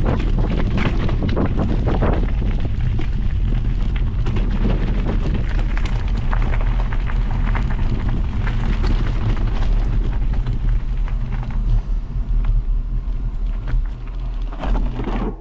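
Heavy wind buffeting on a moving camera's microphone: a constant deep rumble with scattered knocks and rattles, easing and turning uneven near the end.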